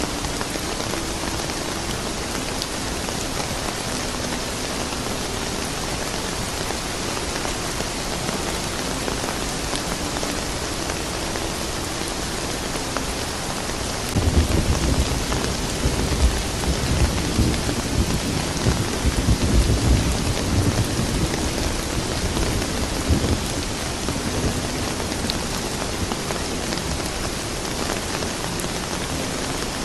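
Steady rain falling. About halfway through, a roll of thunder starts suddenly, rumbles deep for around ten seconds, then fades back under the rain.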